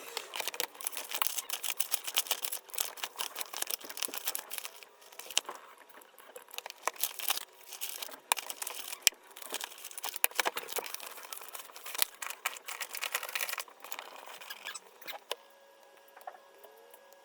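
Rapid, irregular clicking of typing on a computer keyboard, thinning out near the end.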